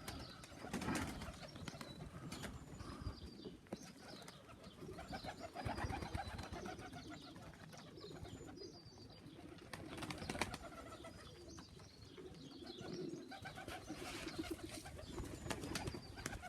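Domestic pigeons at a loft cooing: several soft, low, pulsing coos that come and go.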